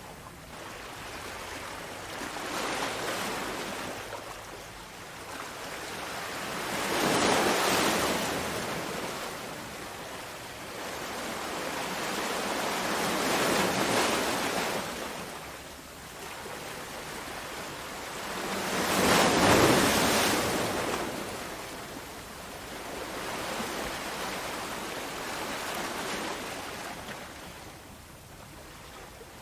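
Sea waves breaking on a shore, the surf swelling and fading in slow surges every few seconds, with three larger waves breaking about a quarter, halfway and two-thirds of the way through.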